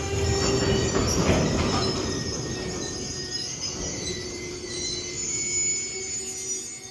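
Freight train of covered goods wagons rolling past, wheels rumbling over the rails with several high, steady squealing tones from the wheels over the top. Loudest about a second in, then easing a little.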